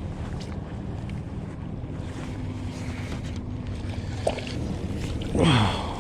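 Wind buffeting the microphone on a kayak, a steady low rumble with a few small clicks. Near the end comes a short, louder sound that falls in pitch.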